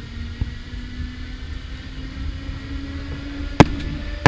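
Small sailing boat's engine running steadily, a low rumble with a steady hum over it. A faint click comes early, and two loud, sharp knocks come near the end.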